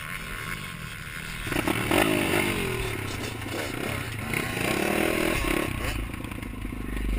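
Off-road motorcycle engine revving up and down, its pitch rising and falling several times. A heavy low rumble comes in near the end.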